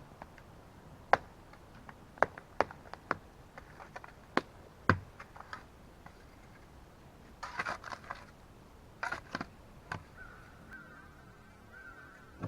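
A hand shovel digging a trench: irregular sharp knocks as the blade strikes the ground, then two short bouts of scraping. Near the end a faint steady high buzz comes in.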